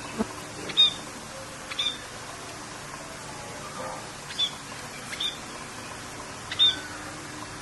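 Short, sharp bird chirps, five of them at irregular intervals of about a second, over a steady hiss of rain.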